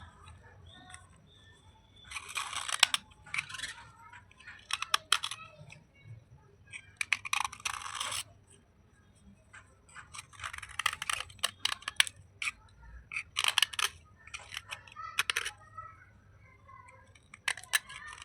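Slate pieces being bitten and chewed close to the microphone: about seven short bursts of crunching and crackling, separated by pauses of a second or two.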